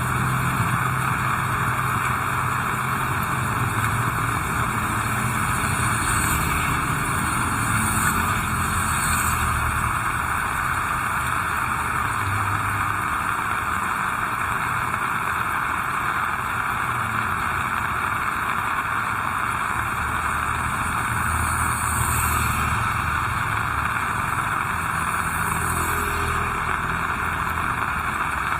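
Heavy rain falling steadily, with the low rumble of vehicles passing on the wet road now and then.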